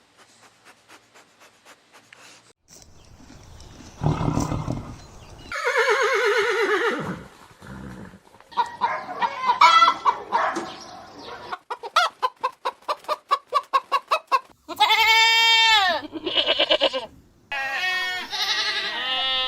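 A run of farm animal calls from chickens and goats: hens clucking in quick short calls, a rooster crowing and goats bleating, with loud arching-pitched calls near the end.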